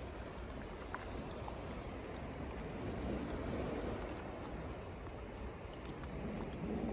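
Water lapping and splashing against a kayak's hull, an uneven wash of sound that swells briefly about halfway through.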